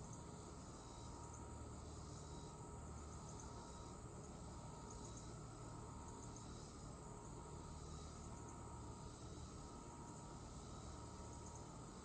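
Outdoor insect chorus: a steady, unbroken high-pitched trilling, with a fainter call repeating about every second and a half below it.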